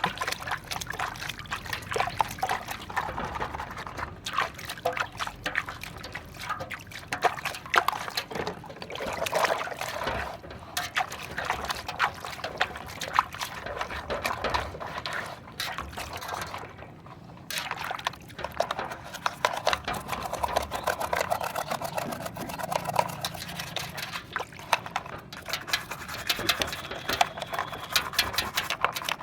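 Water pouring and splashing while muddy toy vehicles are washed in it: a continuous irregular spatter of small splashes and trickles, dropping off briefly about two-thirds of the way through.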